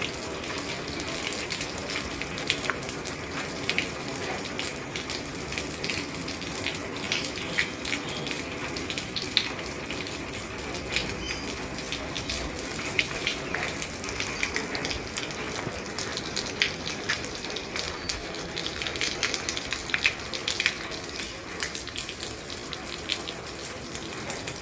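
Heavy rain falling on an old roof: a steady hiss with many sharp, irregular drop taps throughout.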